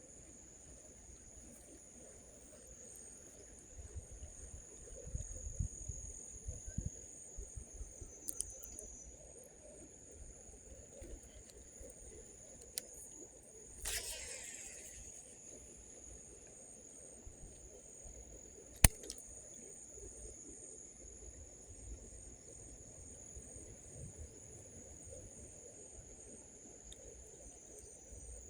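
Insects trilling steadily: one continuous high trill with a pulsing trill just above it. There are low bumps around four to seven seconds in, a brief rustle about fourteen seconds in, and a single sharp click near nineteen seconds.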